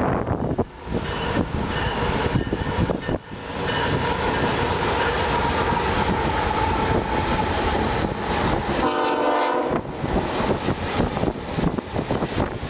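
Union Pacific diesel locomotives passing with the air horn sounding in a long steady blast about a third of the way in. Rail cars roll by over rough wind noise on the microphone.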